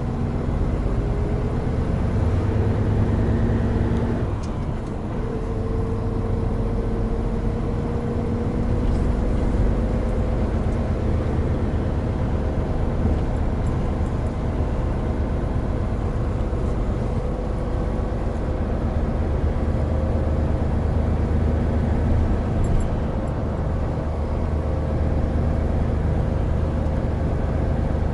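Hino Profia heavy truck's diesel engine running steadily under way, with road noise. The engine note changes about four seconds in and then rises slowly.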